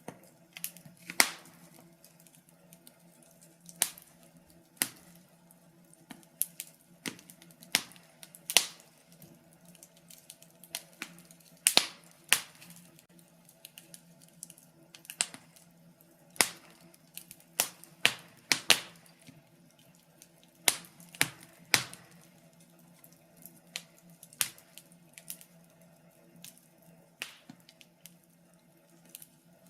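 Wood fire crackling in a fireplace: irregular sharp pops and snaps of burning firewood, now sparse, now several a second, over a faint steady low hum.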